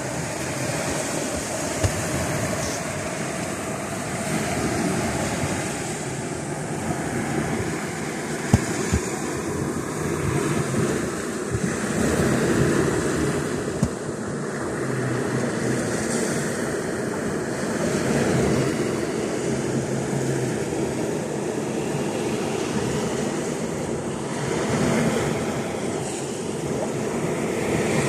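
Sea surf washing continuously, swelling and easing every few seconds, with wind rumbling on the microphone. A few sharp clicks stand out, two of them close together near the middle.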